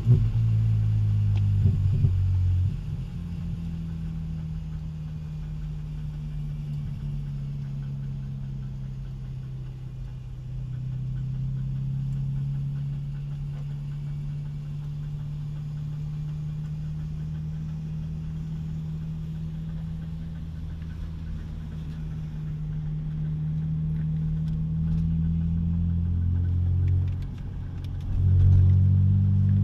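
2006 BMW Z4 M Roadster's S54 straight-six with a muffler delete, heard from inside the cabin, running at low revs while the car rolls along slowly: a steady low drone. It eases off a few seconds in and swells again with throttle near the end.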